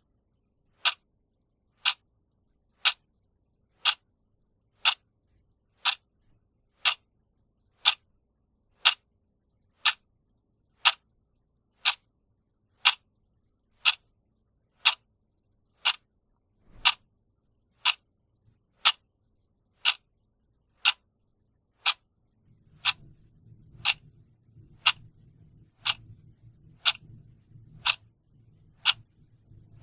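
Clock ticking steadily, one sharp tick a second. A faint low hum comes in underneath about two-thirds of the way through.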